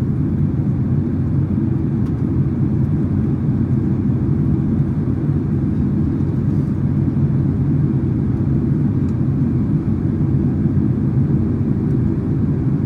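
Steady cabin noise inside a Boeing 767-300ER airliner in descent: engine and airflow noise making an even low rumble that does not change.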